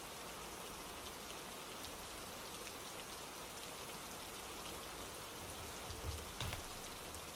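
Steady, gentle rain falling, with scattered individual drops ticking on a surface. A couple of soft low thumps come about six seconds in.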